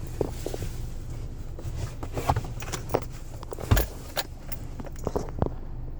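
Car keys jangling, with scattered clicks and knocks of handling, over a steady low hum.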